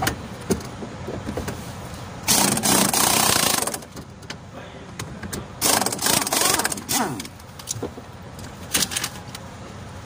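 Repair work on a truck: scattered metallic clicks and knocks, with two loud rushing bursts of noise, each about a second and a half long, about two seconds in and again near the middle.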